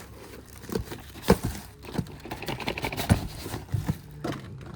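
A delivered package being handled and opened: irregular taps and knocks, with some crinkling of packaging partway through.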